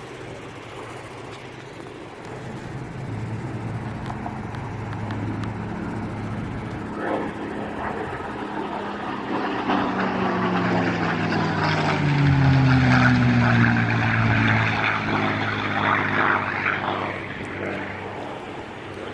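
WWII piston-engine propeller aircraft flying past, growing louder to a peak about two-thirds of the way in, its engine note dropping in pitch as it passes and then fading away.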